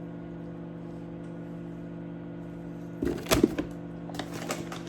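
Microwave oven running with a steady electrical hum. About three seconds in comes a short clatter of knocks and clicks, then a few lighter ticks near the end, as of kitchen utensils being handled.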